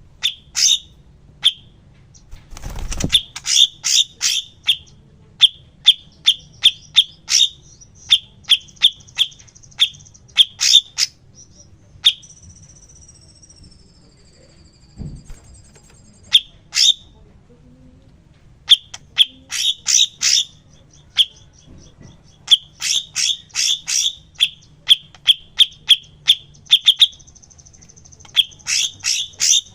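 Songbird calling in quick clusters of short, sharp, high chirps, with a thin, slightly falling trill about halfway through. This is a masteran recording used to tutor cage birds.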